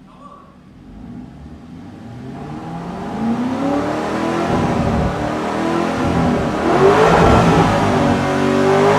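Lamborghini Urus twin-turbo 4.0-litre V8 being revved hard: the engine note builds over the first few seconds, then rises and falls in pitch as the throttle is worked, loudest near the end.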